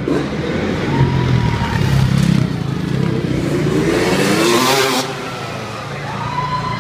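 Motocross dirt bike engine revving, its pitch climbing for about two seconds before it cuts off suddenly about five seconds in.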